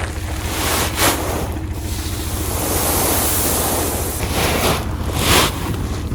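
Tractor engine running with an even low thrum, largely covered by wind buffeting the microphone in gusts that swell and fade.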